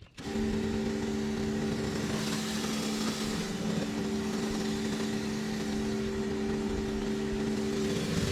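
High-pressure washer running steadily, its motor giving a constant hum under the hiss of the water spray.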